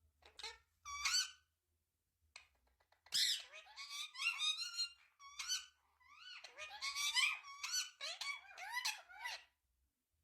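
Indian ringneck parrot vocalizing in a high, squeaky voice: a couple of short calls about a second in, then a run of rapid chatter with quickly rising and falling pitch from about three seconds in until near the end.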